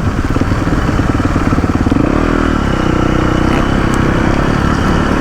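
Motorcycle engine running as the bike is ridden, its note shifting about two seconds in.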